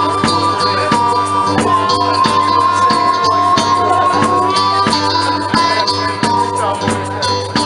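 Live blues band playing an instrumental passage: a long held, slightly bending lead note over a steady beat.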